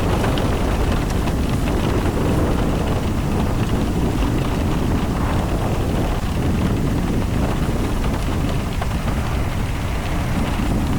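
Steady noise of a car driving in the rain, with wind on the microphone heavy in the lows.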